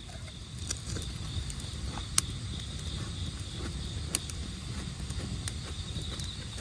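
Wood campfire crackling, with scattered sharp pops over a low steady rumble. A faint steady insect chirring sits behind it.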